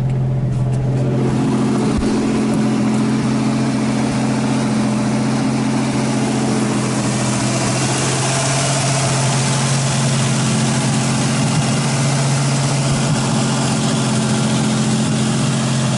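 1986 Buick Grand National's freshly rebuilt turbocharged 3.8 V6 idling steadily at a slightly raised RPM while it warms up on its first startup. The engine is running smoothly.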